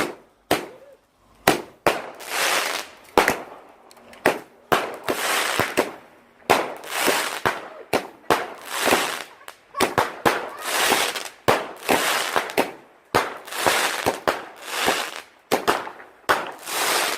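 A "Venom Tooth" garden firework firing a long series of shots, about one a second. Each is a sharp bang followed by a short hissing burst.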